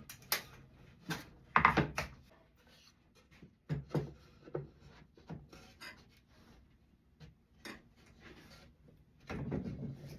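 Hardwood box pieces being handled and fitted together by hand: scattered knocks and clacks of wood on wood, loudest about two seconds in, then a short scraping rub near the end.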